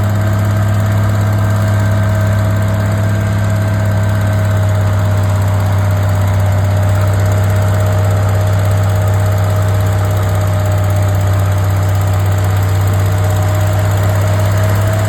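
International Harvester 560 tractor engine running steadily under load while pulling the sled, its pitch easing down slightly and picking up again near the end.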